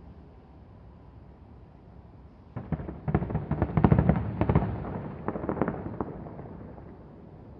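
Fireworks: a quick volley of many bangs and crackles starting about two and a half seconds in, loudest around the middle, then dying away over the next couple of seconds.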